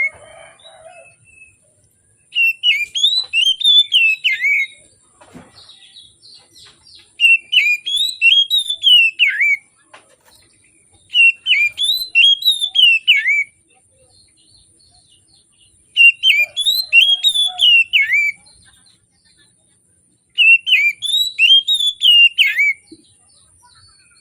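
Oriental magpie-robin (kacer) singing: five loud phrases of quick rising-and-falling whistled notes, each about two and a half seconds long and ending in a falling sweep, with short pauses between them.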